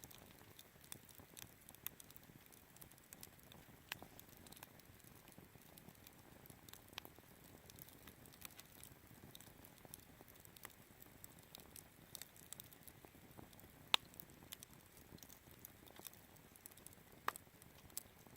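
Wood fire crackling in a Picogrill 398 fire pit: scattered sharp pops and snaps over a faint hiss, the loudest pop about fourteen seconds in and another a few seconds later.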